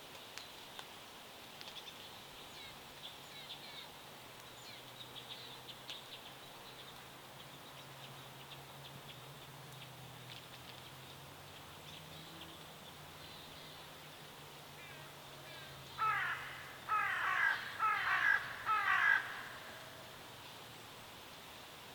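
Birdsong ambience: faint, scattered small-bird chirps, then late on four loud, harsh calls in quick succession from a larger bird.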